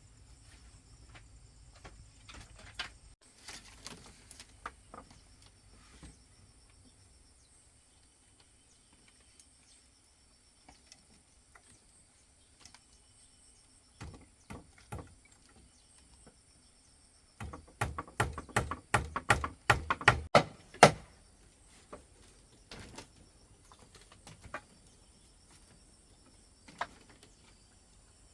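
A quick run of sharp knocks, about four a second, lasting some three seconds past the middle, with scattered single knocks before and after. A steady high insect drone runs underneath.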